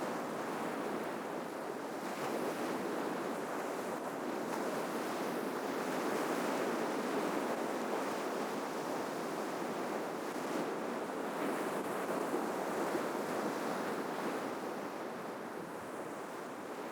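Ocean surf breaking and washing on the shore: a continuous rush that swells and eases a few times.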